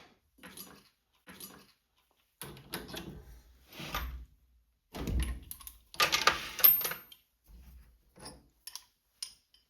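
Metal tools and parts being handled at a lathe: scattered knocks, rattles and rustling, with a louder metallic clatter and a brief ringing clink about six to seven seconds in. The lathe is not running.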